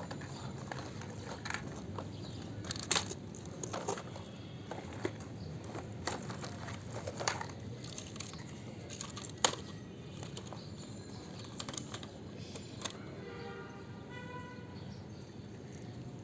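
Scattered light clicks and taps over a low steady background hum, with the sharpest click about nine and a half seconds in.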